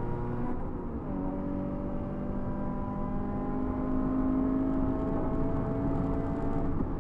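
2016 Scion FR-S's 2.0-litre flat-four engine at full throttle, heard from inside the cabin. About a second in, an upshift from third to fourth drops the pitch. The engine note then climbs steadily and breaks off just before the end.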